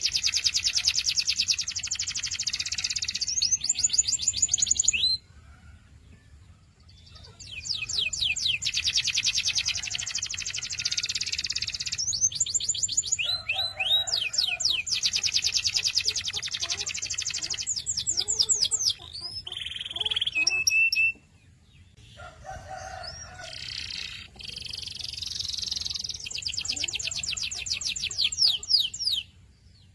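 Domestic canary singing: long phrases of very fast trilled notes and rising sweeps, broken by short pauses.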